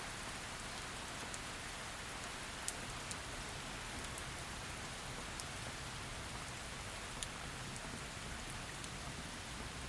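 Heavy rain falling: a steady, even hiss of rain with scattered sharp taps of single drops, the loudest a little under three seconds in and again past seven seconds.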